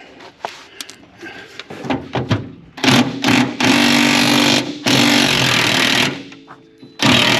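Impact wrench running in three loud bursts on a fender bolt, after a couple of seconds of light metallic clinks.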